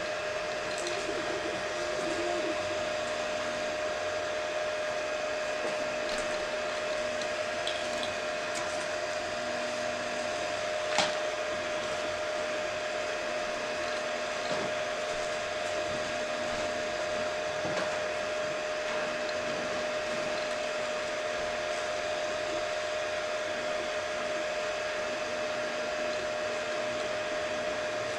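HICTOP S250 3D printer running a print: a steady fan whine, with short motor tones coming and going as the print head moves. A single sharp click about eleven seconds in.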